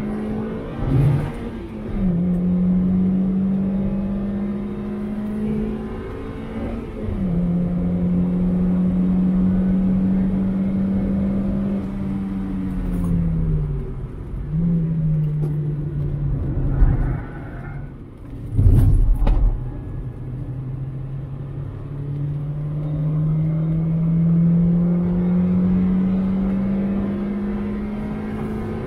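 2001 Mazda MX-5 1.8's four-cylinder engine pulling hard on track. Its note climbs steadily and drops sharply at gear changes, once near the start and again near the end. Midway it falls away while slowing, then jumps back up on a downshift, with two short, loud rumbles a few seconds later.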